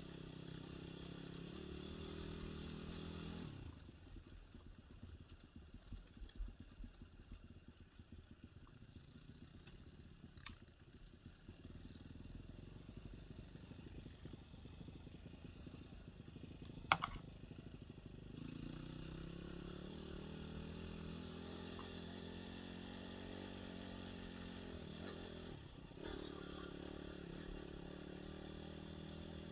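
Enduro dirt bike engine running, then dropping away to a quiet stretch of coasting. A single sharp knock comes about 17 seconds in. About 18 seconds in the engine pulls again with rising revs and settles into a steady run.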